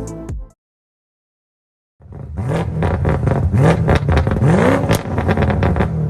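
BMW M8 Competition's twin-turbo V8 through its stock exhaust: a brief burst of engine sound that cuts off, then after about a second and a half the engine revs up and down several times with crackles and pops.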